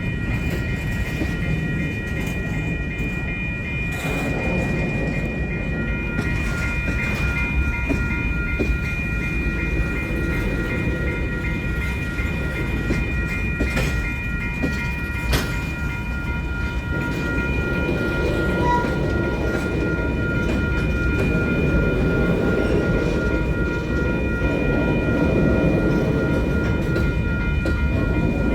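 Freight train rolling past: a continuous rumble of railcars on the track with occasional clanks, and steady high-pitched tones ringing above it. The rumble grows a little louder in the last third.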